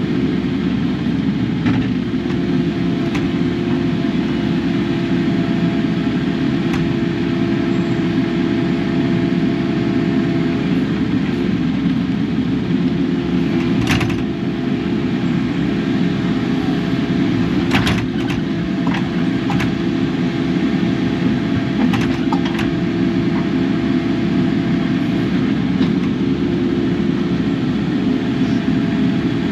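Kubota KX080 excavator's diesel engine running steadily under work, with a few sharp clanks spread through it.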